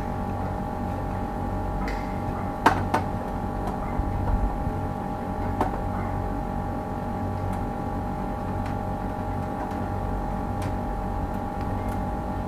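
Steady machine hum with a constant whining tone, broken by a few sharp clicks or knocks about three and six seconds in.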